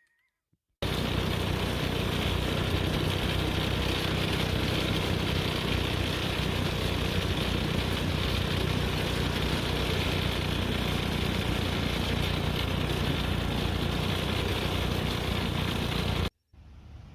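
Go-kart engine running at a steady pitch. It cuts in suddenly about a second in and cuts off suddenly just before the end.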